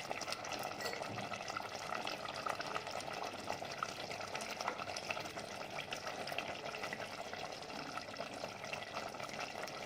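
Chicken sizzling and bubbling in its own released juices in a clay pot, with steady fine crackling, while a spoon stirs it.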